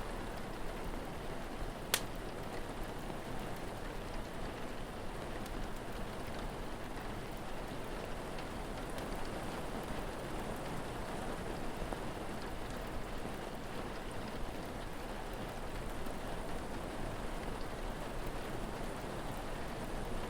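Steady rain, with a single sharp pop from a crackling wood fire about two seconds in.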